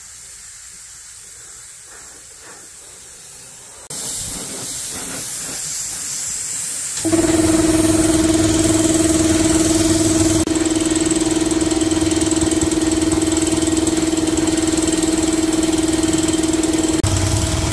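Steady hiss that gets suddenly louder about four seconds in. About seven seconds in, a machine starts running with a steady, even hum.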